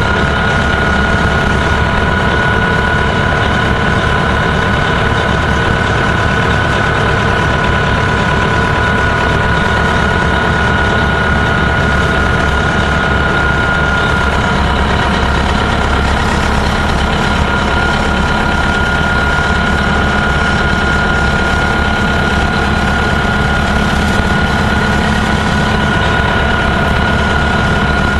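Diesel engine of a Gillig Phantom transit bus running steadily, with no change in speed, and a steady high whine over the low drone.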